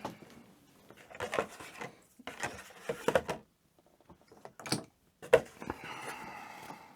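Handling noise from working on a small plastic model kit: a few separate bursts of clicks, taps and rustles from tweezers, plastic parts and a sticker sheet. A longer rubbing sound comes near the end.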